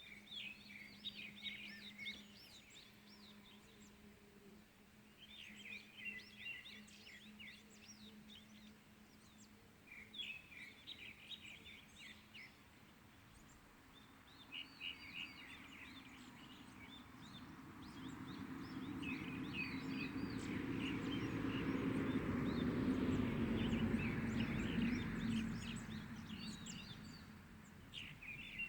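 A songbird sings short phrases of quick high chirps, a burst every three to five seconds. In the second half a distant engine rumbles past, swelling over several seconds to become the loudest sound and then fading near the end.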